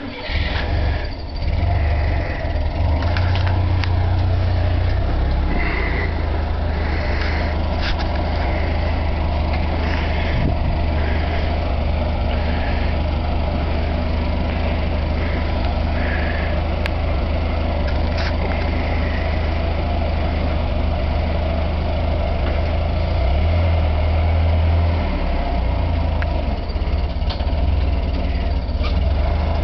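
Engine of a heavy machine starting up again after a stall and then running steadily, with a few short clanks over it.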